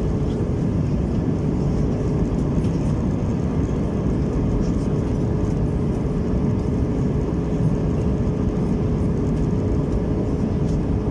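Steady cabin noise inside an Airbus A321-200 airliner: an even rumble with a constant mid-pitched hum and no changes.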